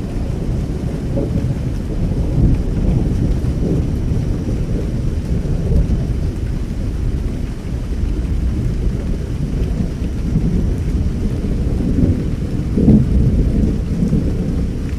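Thunder rumbling low and continuously over steady rain, swelling in waves, with the loudest roll about thirteen seconds in.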